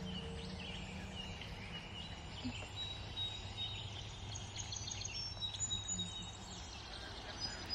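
Small birds chirping and whistling, short high calls scattered throughout, over a steady low background rumble.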